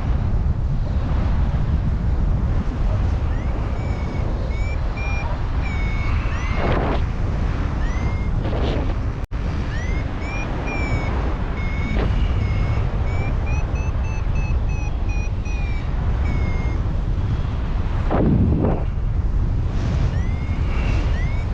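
Heavy wind noise on the microphone, with a paragliding variometer beeping in runs of short high chirps, the beeping that signals the glider is climbing in lift.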